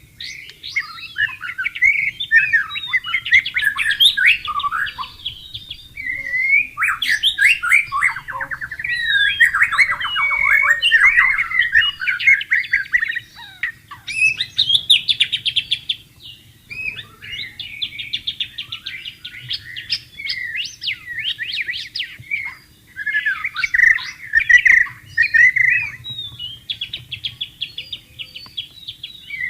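White-rumped shama (murai batu) singing a long, varied song of whistled phrases and rapid trills, with only brief pauses between phrases.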